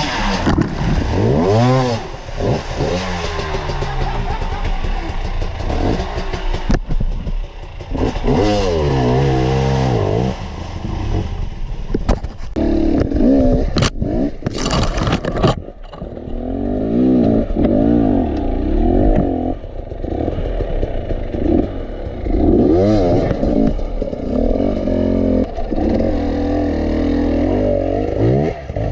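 Enduro motorcycle engine revved hard again and again, its pitch climbing and dropping with each twist of the throttle, with clattering and scraping around it. A short rush of noise comes about halfway through.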